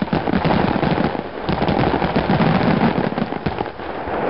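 Fireworks going off: a dense, rapid crackling of many small reports, heaviest over the first three seconds.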